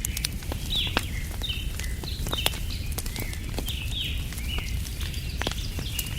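Wood fire crackling with sharp pops, while a bird repeats short falling chirps about once a second over a steady low rumble.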